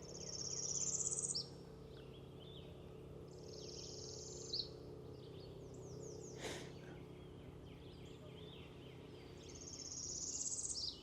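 A songbird singing a high, buzzy song that rises and ends in a short sharp note, three times, with other birds chirping and trilling softly in between. A brief click about six and a half seconds in.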